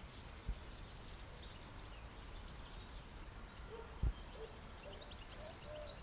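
Faint outdoor ambience with scattered small bird chirps, broken by two soft low thumps, about half a second in and about four seconds in.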